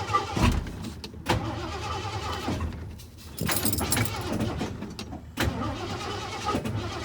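Truck engine being cranked by its starter, turning over in an even rhythm with several sharp clunks, but not catching. It is a no-start fault that the owners put down to something in the distributor or ignition.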